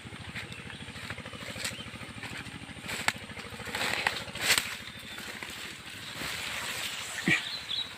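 A small engine running steadily, with scattered crackles and snaps like dry vegetation being trodden or broken. A short bird chirp comes near the end.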